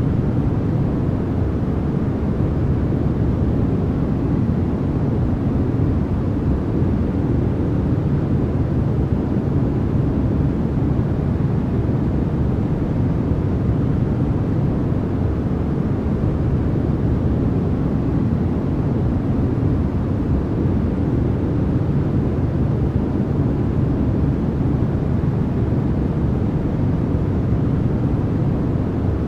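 Continuous generated noise for sleep masking, sold as white noise. It is perfectly steady and unchanging, and sounds deep and muffled, a dull rushing rumble rather than a bright hiss.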